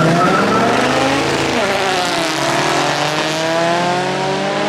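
A car engine accelerating hard: its pitch dips about a second and a half in, then climbs steadily for about three seconds.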